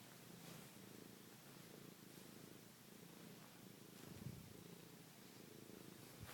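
Domestic cat purring faintly and steadily, with a soft low thump about four seconds in.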